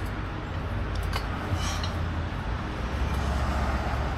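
A few faint metallic clinks as parts of a garage door opener rail are handled and fitted together, over a steady low rumble.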